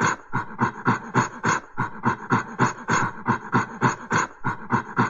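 An ape gibbering: quick, breathy panting calls repeated about four times a second.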